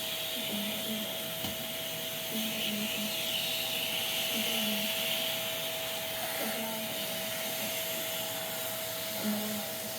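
Shark vacuum cleaner running steadily, a constant whine over the rush of air, with the airflow noise swelling and easing as the nozzle is worked over the fan.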